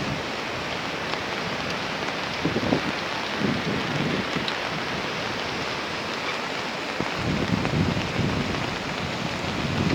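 Heavy rain pouring down in a steady, dense hiss, with a few low rumbling swells, about two and a half seconds in and again near the end.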